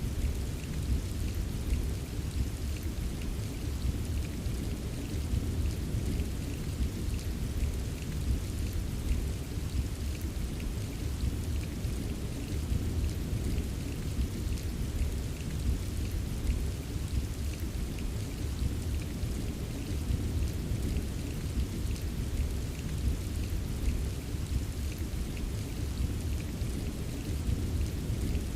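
Steady rain with scattered drops ticking, over a continuous deep rumble of distant thunder. No single thunderclap stands out.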